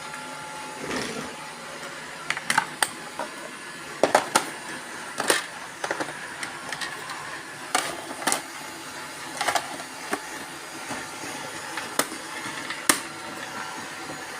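Several robot vacuum cleaners running together, a steady whirring hum with a few thin whining tones, broken by frequent irregular sharp knocks and clicks.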